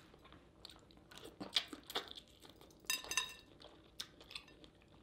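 Close-miked eating sounds: chewing with scattered wet mouth clicks and crackles, and a short high squeak about three seconds in.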